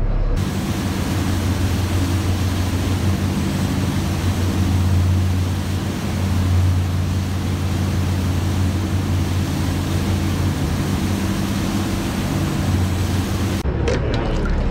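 Sportfishing boat's engines running steadily, a low even drone under a loud rushing hiss of wind and water. The hiss cuts in about half a second in and cuts off abruptly about a second before the end.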